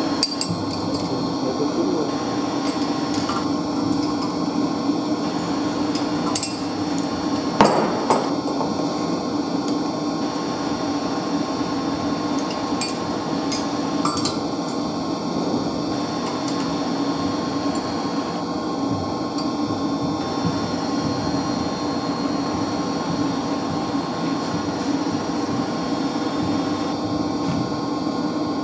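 A few sharp metal knocks of tools on pump parts, the loudest about eight seconds in, over a steady hum of running machinery.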